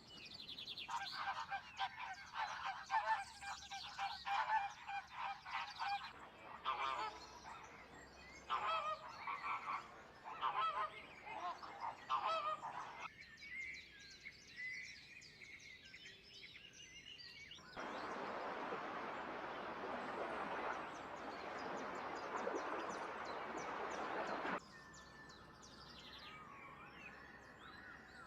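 Birds calling in fast runs of repeated pitched calls through the first half. Then comes several seconds of a steady, even noise that stops abruptly.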